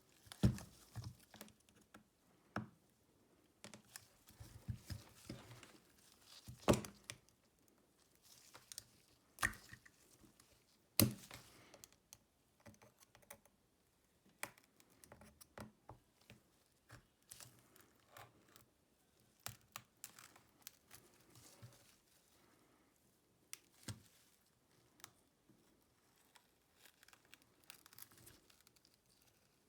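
Hands and small tools working on a Xiaomi Redmi Note 9S at a repair bench: irregular sharp clicks and taps with soft tearing and crinkling between them, the loudest clicks a few seconds apart in the first half.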